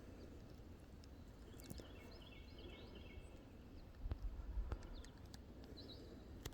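Faint pond-side ambience with a small bird singing briefly, a quick run of high chirps, and another short call near the end; a low rumble on the microphone about four seconds in.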